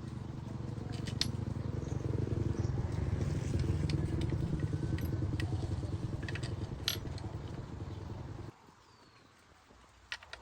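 Small engine running steadily with a fast, even firing pulse, then cutting off abruptly about eight and a half seconds in.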